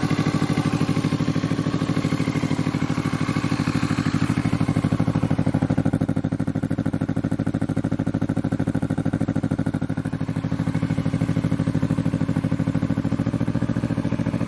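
2020 Kawasaki Vulcan S's parallel-twin engine idling just after a cold start, through a budget aftermarket full exhaust system: a steady, low, pulsing exhaust note.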